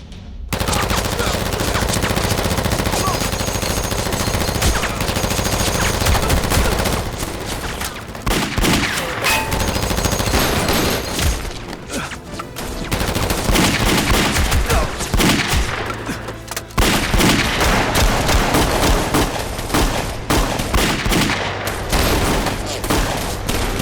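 A gunfight sound effect: dense, rapid gunfire in long volleys, shot after shot with short lulls, starting abruptly about half a second in.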